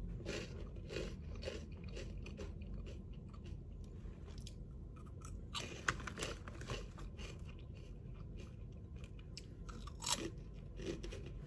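Crunchy Cheetos being bitten and chewed: crisp crunches in a chewing rhythm, with fresh, stronger crunches about halfway and again near the end.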